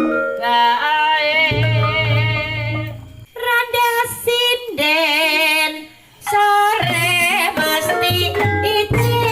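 Javanese folk music for a kuda lumping / reog performance: a high melody with wide vibrato over pulsing drums, dropping away briefly about three seconds in and again near six seconds.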